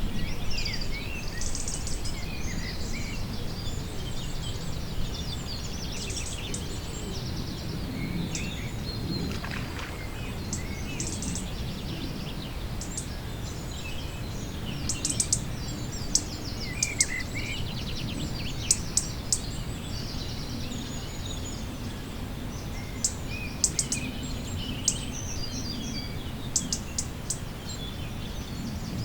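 Songbirds chirping and calling, with short trills and sharp high chirps that come thicker in the second half, over a steady low rumble.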